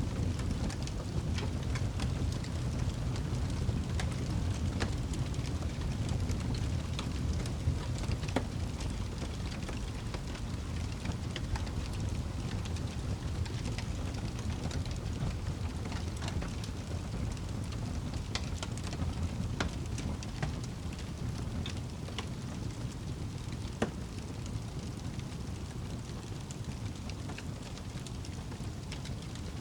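Wood fire burning in a fireplace: a steady low rumble of flame with irregular crackles and pops from the logs, one sharper pop a little over three-quarters of the way through.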